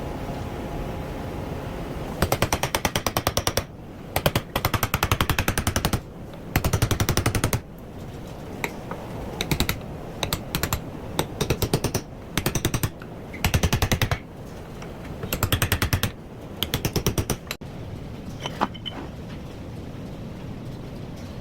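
A power tool hammering very rapidly in about ten bursts of a second or so, with short pauses between them.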